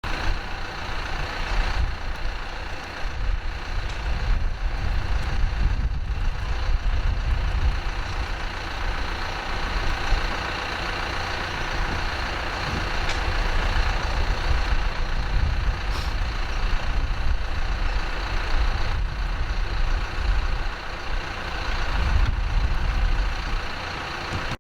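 A motor vehicle's engine running steadily, with a heavy low rumble under a constant whine.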